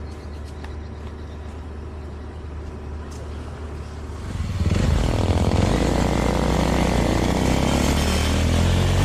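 Suzuki Thunder 250 motorcycle engine running on the road, getting much louder about halfway through as it pulls harder.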